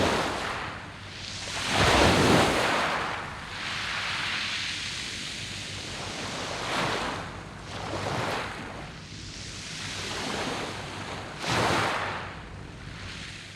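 Sea waves washing onto a round-pebble beach, coming in surges every few seconds with a steady hiss between them. The sound fades near the end.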